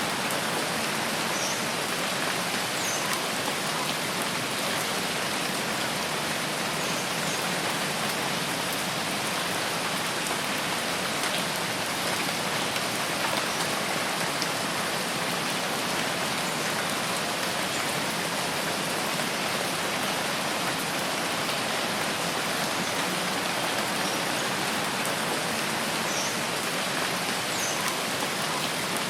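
Steady rain falling on foliage, an even hiss without pause, with a few faint high chirps now and then.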